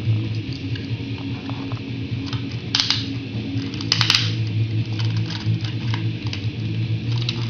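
Hard plastic toy parts being handled and fitted together: scattered small clicks and rattles, with two short bursts of clicking and rustling about three and four seconds in, over a steady low hum.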